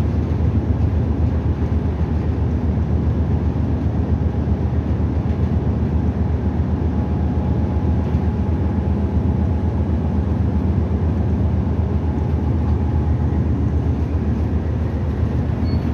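Nagasaki Bus no. 2202 heard from inside the cabin while driving: a steady low engine and road noise.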